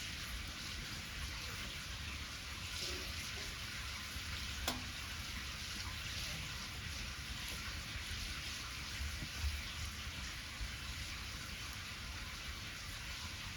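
Steady sizzle of pancake batter cooking in a pan over a wood fire, with one sharp pop about five seconds in.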